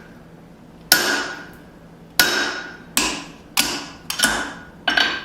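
Hand hammer striking a punch driven into hot steel to open the eye of a small hatchet head: about seven sharp, ringing blows at uneven spacing, coming quicker toward the end.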